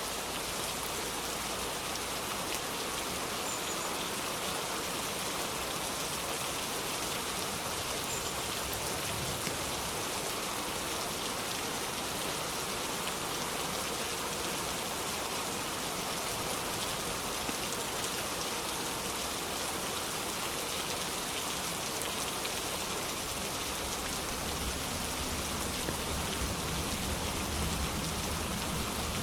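Steady, even rainfall with a dense patter of drops. Near the end, distant thunder rumbles low beneath the rain.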